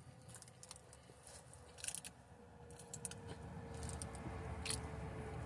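Faint mouth sounds of eating and drinking: soft smacks and clicks, a few around two seconds in and more near the end, over a low steady hum.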